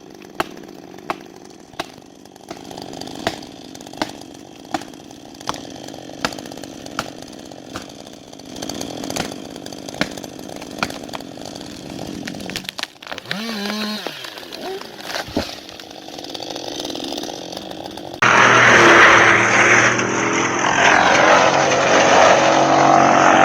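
Chainsaw running and cutting into a tree, with sharp regular clicks about one and a half times a second through the first several seconds. Near the end it cuts off abruptly into a much louder, dense sound.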